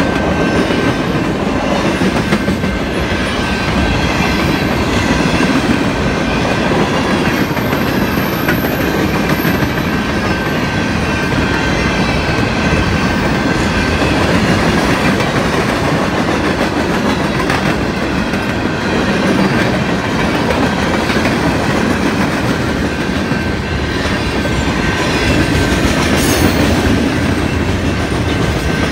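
Freight train cars rolling past close by: a steady rumble of steel wheels on the rails, with a thin high tone held above it.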